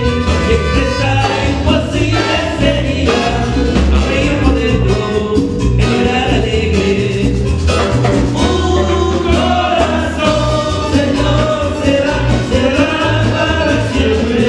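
Latin-style Christian worship song: voices singing over a band with a steady, pulsing bass line.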